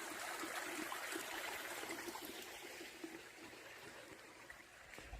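Overflow water running off the fields, trickling and splashing down a small channel as a steady rush that slowly fades.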